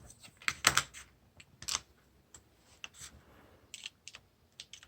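Scattered light clicks and taps of small plastic and metal phone parts being handled and pressed into place while an LG G3 is reassembled, with a louder cluster of clicks a little under a second in.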